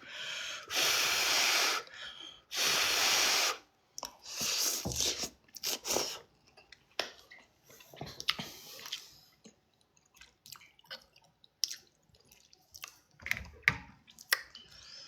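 Eating instant noodles close to the microphone: three long, breathy slurping bursts in the first few seconds, then small chewing, wet mouth sounds and utensil clicks.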